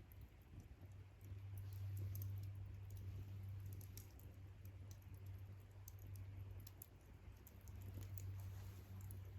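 Wood campfire crackling: small, irregular pops and ticks over a steady low hum.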